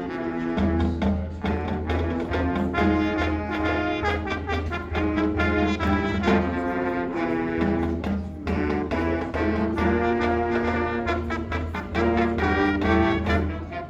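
High school marching band playing a brass passage: trumpets and trombones hold chords over a steady low bass line, with short breaks between phrases.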